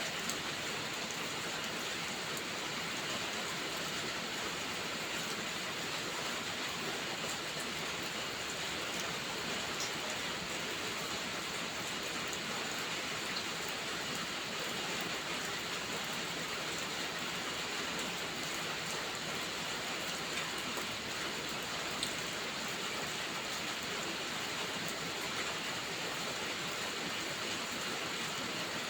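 Steady rainfall: an even, unbroken hiss with a few faint scattered ticks.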